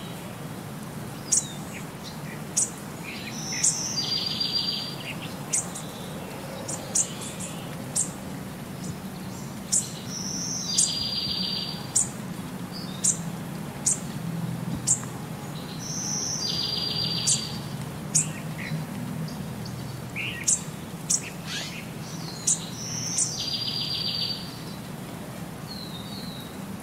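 Birdsong: short, sharp high chirps scattered throughout, with a buzzy trill that comes round about every six seconds, over a faint steady low hum.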